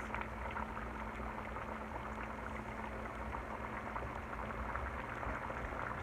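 Chicken Marsala sauce simmering in a small frying pan: a steady bubbling sizzle with small pops, over a faint low hum.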